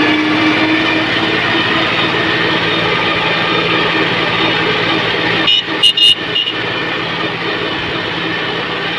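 Kubota farm tractor's diesel engine running steadily. About five and a half seconds in, a brief clatter of a few sharp knocks cuts across it, after which the engine sounds slightly quieter.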